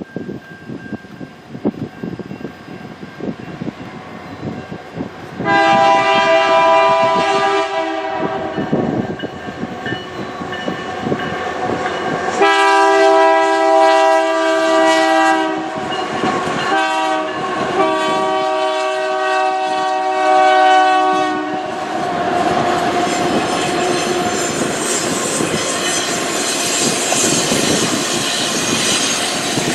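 The air horn on a GE AC4400CW diesel locomotive sounds several long blasts as the train approaches, each a chord of several steady tones. From about two-thirds of the way in, the lead locomotives pass, with the diesel engines running and the wheels rolling on the rails.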